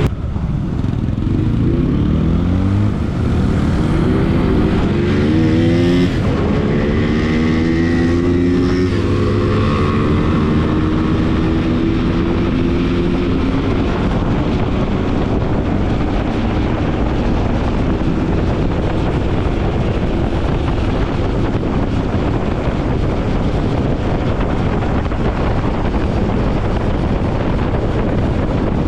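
Bajaj Pulsar NS200 single-cylinder motorcycle engine accelerating, rising in pitch over several sweeps through the gears in the first six seconds or so, then running at a steady speed. Wind noise on the microphone takes over more of the sound in the second half.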